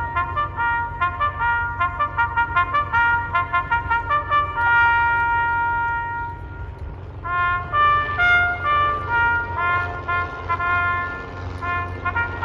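Brass music led by trumpets, playing a quick run of short notes, then a few longer held notes. After a brief pause the tune starts again. A steady low rumble runs underneath.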